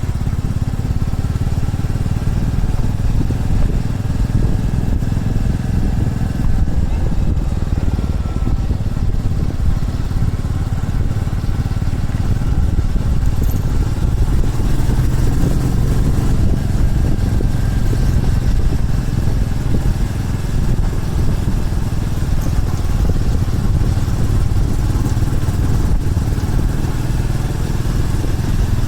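Motorcycle engine running as the bike is ridden, a steady low rumble with no let-up.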